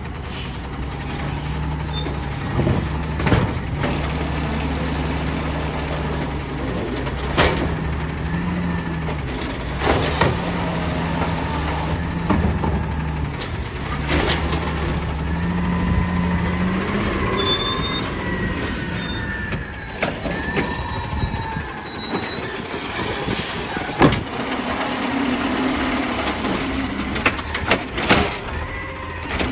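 Peterbilt 320 side-loader garbage truck running, with its engine steady and sharp clanks every few seconds. High squealing comes in about the middle, and the engine note drops away a little after halfway.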